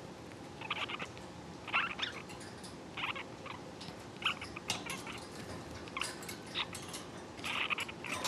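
Lineolated parakeets giving short, soft chirps at irregular intervals, roughly one a second.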